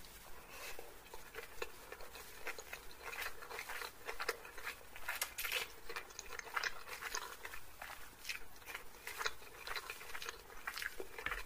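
A mouthful of chilli chicken being chewed close to the microphone: many short, irregular wet mouth clicks and smacks.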